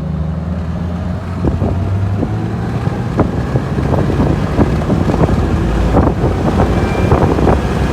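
Jeep Wrangler engine pulling hard in first gear as the vehicle gathers speed, with wind buffeting the microphone and growing louder. The automatic transmission is not upshifting and is stuck in first.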